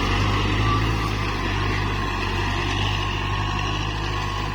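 Kubota MU4902 tractor's four-cylinder diesel engine running steadily under load while ploughing.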